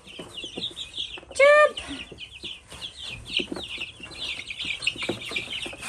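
A flock of young chicks peeping rapidly and continuously, many high chirps overlapping, with a few light taps and scuffles as they move about.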